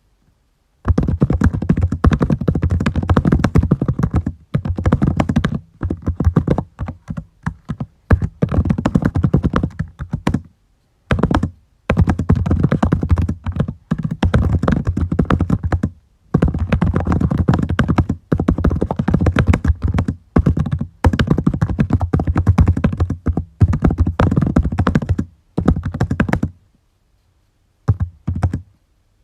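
Typing on a computer keyboard: fast runs of key clicks, a few seconds at a time, broken by short pauses.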